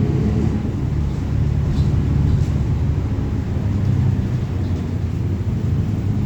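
Mercedes-Benz OF-1721 city bus's diesel engine running with a steady low rumble, heard from inside the moving bus, with a couple of faint ticks about two seconds in.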